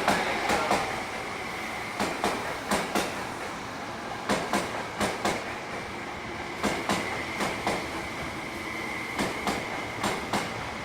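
JR E231-800 series electric train running at steady speed, its wheels clicking over rail joints in short clusters about every two seconds, with a faint steady high whine.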